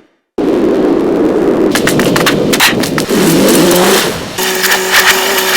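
Old Jeep's engine running loudly, with a rise and fall in pitch about three seconds in like a short rev, and scattered sharp clicks. The sound cuts in abruptly about half a second in.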